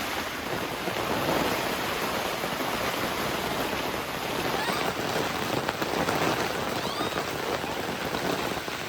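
Heavy rain pouring down in a steady, dense patter of drops on the campsite's shelter.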